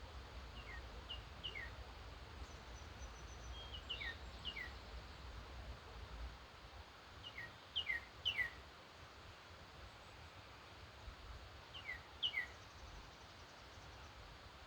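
Songbird calls: short, quickly falling chirps in little groups of two to four, coming every few seconds, with a faint thin run of high notes from another bird about three seconds in. A low rumble underneath fades out about halfway through.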